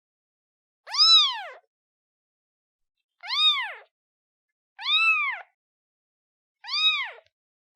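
Newborn kitten meowing for its mother: four short, high-pitched mews, each rising and then falling in pitch, coming about every one and a half to two and a half seconds with dead silence between them.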